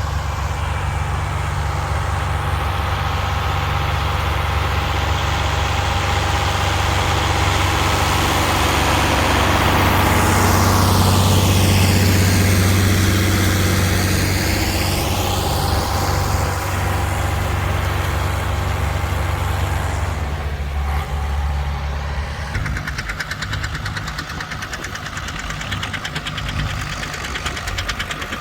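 Tractor engine running steadily with a low drone, growing louder to a peak about twelve seconds in as it passes close by, then fading. In the last few seconds the drone gives way to a fast, rattling engine clatter.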